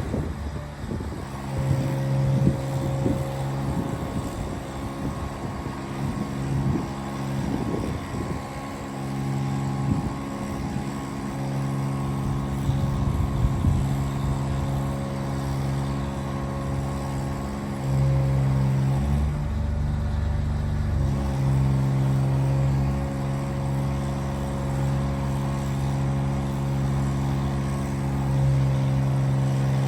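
A 2008 GMC 7500 bucket truck running with a steady hum. Its pitch shifts briefly about two-thirds of the way through and then settles again.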